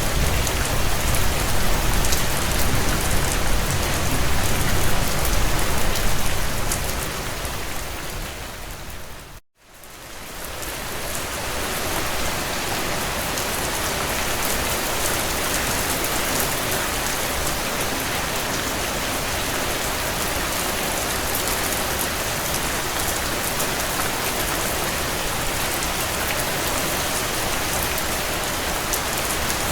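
Heavy rain drumming on a tin roof, a dense steady patter with a strong low rumble in the first few seconds. About nine seconds in it fades out to a moment of silence, then fades back in as steady rain with less low end.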